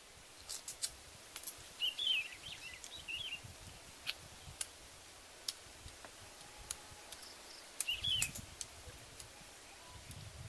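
A small bird chirps in two short bursts, about two seconds in and again about eight seconds in, over scattered sharp clicks from someone chewing food by mouth.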